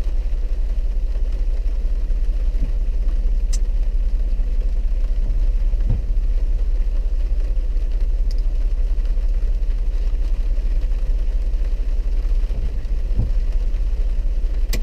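A four-wheel-drive vehicle's engine idling with a steady low rumble.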